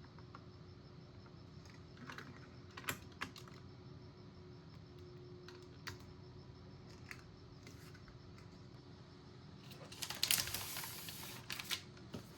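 Faint, scattered clicks and taps of small computer parts being handled, then a short burst of rustling about ten seconds in.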